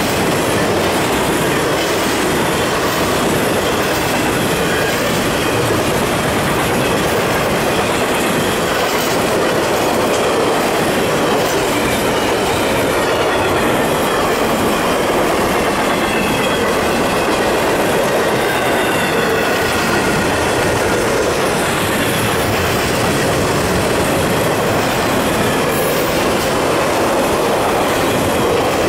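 Double-stack intermodal container cars rolling past at track speed: a steady rumble and clatter of steel wheels on the rails, with a faint, thin wheel squeal wavering in and out through the middle.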